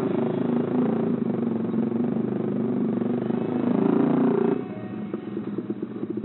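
Sport motorcycle engine running under way, heard from the rider's seat, its pitch wavering with the throttle. About four and a half seconds in the throttle is rolled off and the engine drops to a quieter, evenly pulsing run as the bike slows.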